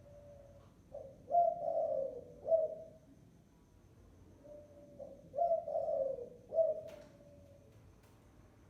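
Spotted dove cooing, the lure-bird call used in Vietnam for decoy trapping: two phrases of several low coos, about four seconds apart. A faint click near the end of the second phrase.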